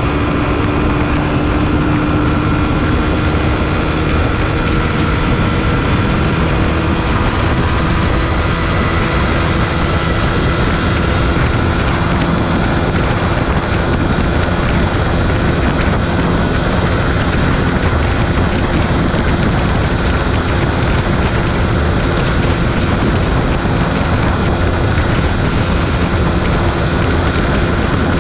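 Beta RR 125 LC enduro motorcycle engine running at a steady speed while riding, with wind rushing over the microphone.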